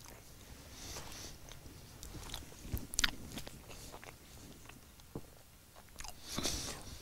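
A person chewing and biting into sinori, the baked dough dish, with soft crunches and a few sharp clicks, the loudest about three seconds in.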